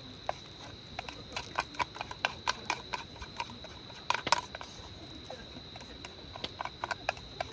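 Irregular sharp taps and clicks, a few a second, with a louder cluster a little past the middle, over a faint steady high-pitched tone.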